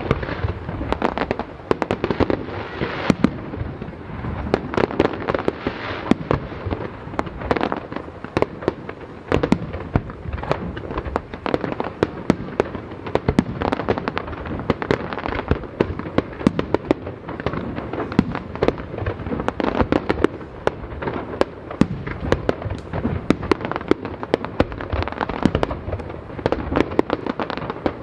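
Aerial fireworks display: shells bursting in a dense, unbroken run of sharp bangs, many in quick succession.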